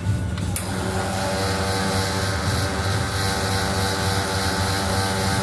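Café coffee machine running with a steady pitched hum, joined about half a second in by a continuous hiss.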